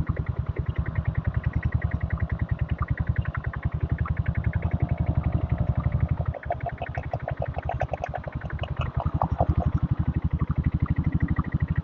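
Single-cylinder diesel engine of a diesel Bullet motorcycle running under way, its exhaust beating in steady, rapid, evenly spaced thuds, with a brief dip about six seconds in.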